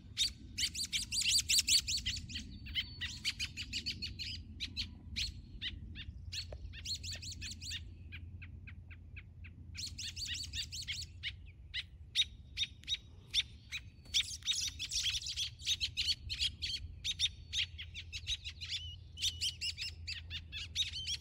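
Parent songbirds giving rapid, repeated alarm chips in bursts, calling anxiously over their fledgling on the ground; the calling thins out for a few seconds in the middle. A steady low hum runs underneath.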